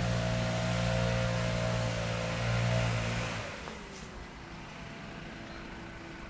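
A motor-driven machine running steadily with a low hum, then cutting off a little past halfway.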